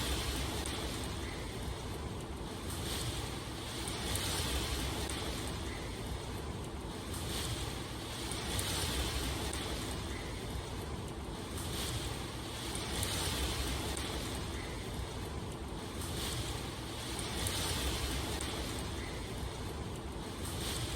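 Steady rain, an even hiss that swells and eases slightly about every two seconds.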